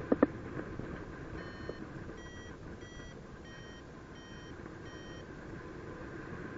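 A paragliding variometer beeping six times, a short beep roughly every 0.6 seconds, slightly higher-pitched in the middle of the run: the audio signal of the glider climbing in lift. Steady wind noise runs underneath, and two sharp knocks sound right at the start.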